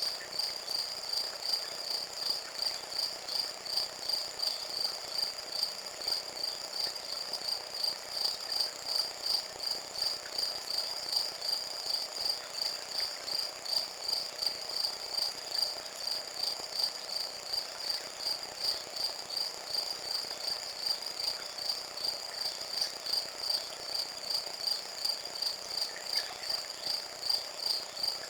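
Cricket chirping steadily, a high trill repeating in evenly spaced chirps.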